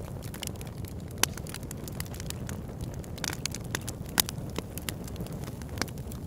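Campfire crackling: a steady low rush of flames under frequent sharp pops and snaps of burning wood, with two louder pops, one about a second in and one a little past four seconds.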